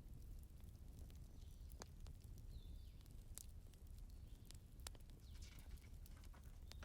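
Wood fire crackling faintly: irregular sharp pops and snaps over a low steady rumble, with a few louder pops.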